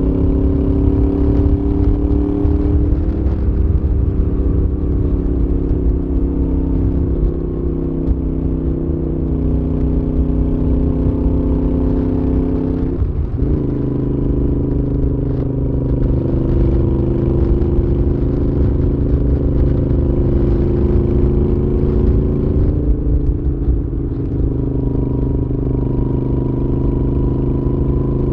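Moto Guzzi V7's air-cooled V-twin engine running through a Mistral aftermarket exhaust while the bike is ridden at steady speed. About halfway through the note breaks briefly and comes back at a different pitch, as at a gear change.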